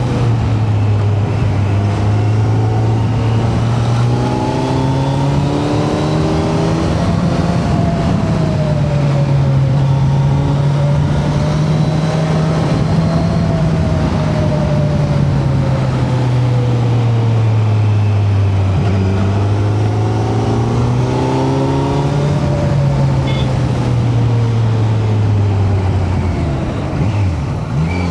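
Kawasaki Z900's inline-four engine under way on a ride, its revs rising and falling through the gears, with wind rush over the microphone. Near the end the revs drop sharply and then climb again.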